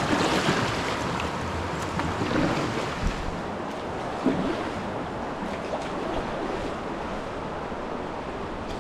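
Rushing whitewater of a river rapid around the kayak, a steady dense roar of moving water, with a couple of short sharp splashes or knocks near the middle.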